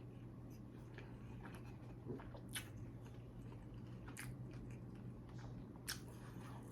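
A person chewing a mouthful of cheeseburger, faint, with a few short wet smacks and clicks of the mouth, over a low steady hum.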